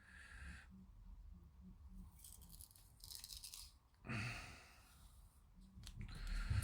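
Plastic model-kit parts being handled and pushed together in a dry fit: several short, faint handling noises with a few clicks, the last one the loudest near the end.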